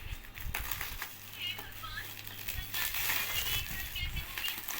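Plastic packaging crinkling and rustling in irregular bursts as a sealed pack of canvas boards is unwrapped by hand.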